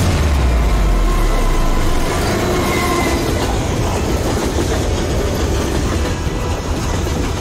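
A train passing at speed close by: a heavy low rumble for the first couple of seconds as the steam locomotive goes through, then the steady noise of passenger coaches' wheels running over the rails.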